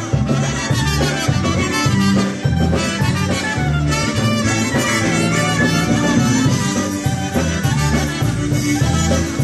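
Live polka band playing, a steady oom-pah bass beat alternating between two notes under the melody instruments.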